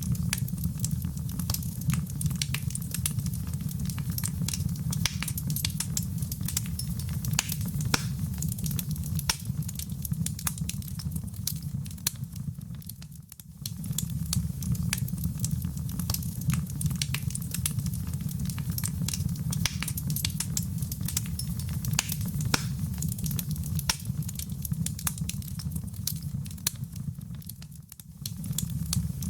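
Wood fire in a fireplace crackling, with a constant stream of sharp pops and snaps over a steady low rumble of the flames. The sound fades down and back up twice, about halfway through and near the end.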